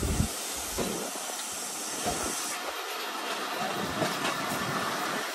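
Steady hiss from a train standing at a station, with a few faint clicks.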